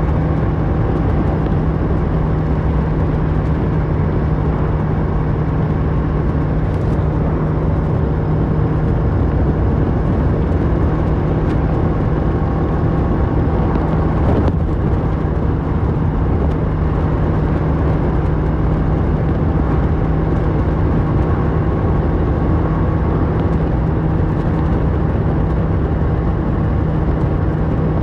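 Kawasaki Versys 650 parallel-twin engine running at a steady speed through a Mivv slip-on exhaust, heard from the rider's seat, with a constant drone and road rush underneath.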